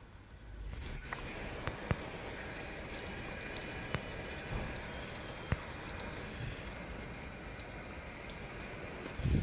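Paloma gas water heater running: a steady rushing hiss of flame and flowing water that sets in under a second in, with a few sharp clicks scattered through it.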